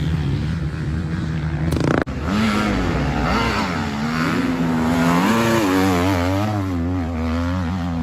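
Motorcycle engine running at steady revs, then, after a sudden cut about two seconds in, a motorcycle engine revving up and down repeatedly.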